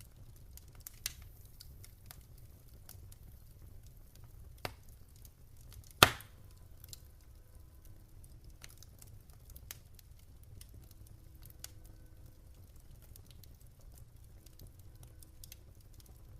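Wood fire crackling in a fireplace: scattered small ticks and pops over a low steady rumble, with one sharp, much louder pop about six seconds in.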